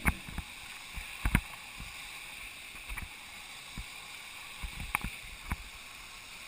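Steady rush of waterfall water, with scattered sharp clicks and knocks over it.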